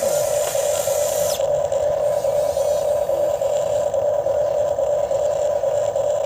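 A radio-controlled model excavator's hydraulic pump running with a steady whine, and a hiss over it that drops away about a second and a half in.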